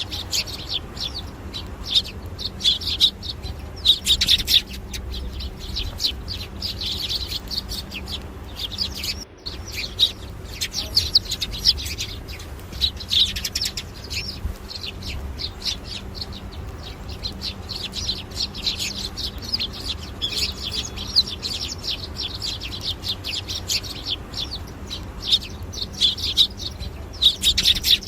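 Birds chirping continuously, many quick high-pitched chirps overlapping, over a steady low background rumble. The sound drops out briefly about nine seconds in.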